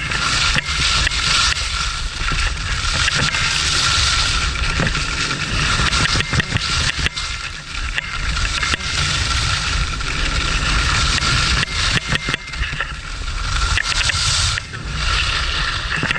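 Skis scraping and chattering over the snow during a run, with wind buffeting the action camera's microphone as a low rumble.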